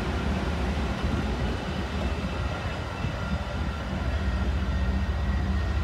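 Metra commuter train of bilevel gallery coaches rolling past on the rails, a steady low rumble with a low drone underneath.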